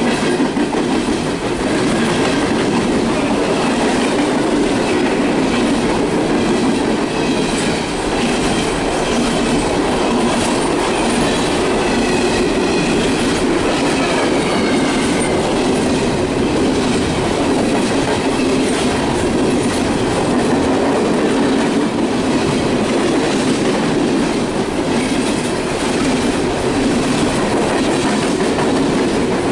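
Empty CSX coal train's open-top hopper cars rolling past: a steady, loud rumble and clatter of steel wheels on the rails, with faint high squeals around the middle.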